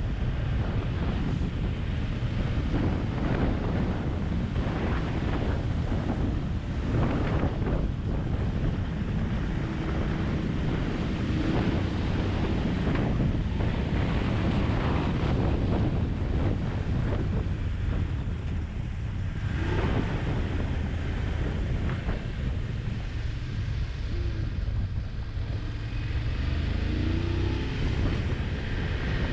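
Wind rumbling and buffeting over the microphone at riding speed, with a motorcycle engine running underneath; the engine's pitch rises and falls a little near the end.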